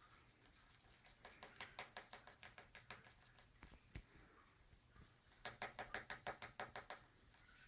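Lutino cockatiel rapidly pecking a hard surface with its beak: two runs of quick taps, about six a second, with a single louder knock between them.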